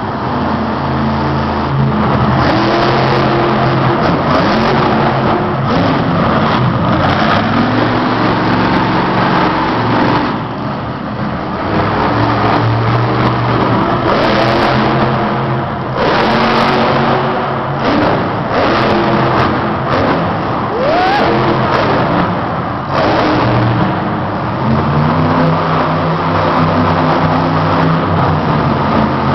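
Monster truck's supercharged V8 running loud and revving hard again and again, the engine note climbing and dropping, with brief lulls about ten, sixteen and twenty-three seconds in.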